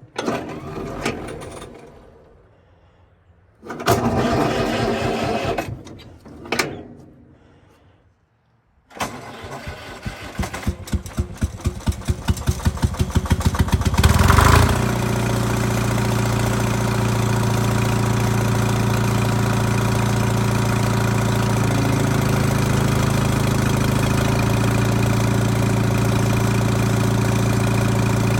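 Allis-Chalmers HD5 bulldozer's diesel engine on a cold start: short spells of cranking with pauses between, then a longer crank from about nine seconds in whose pulses quicken and grow louder until the engine catches at about fourteen seconds and settles into a steady idle.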